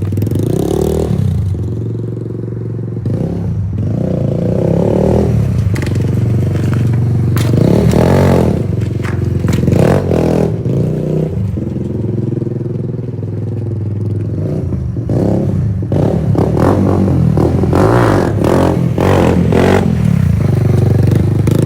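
Motorcycle engine running while riding, its pitch rising and falling repeatedly with the throttle, mixed with scattered rattling and knocking.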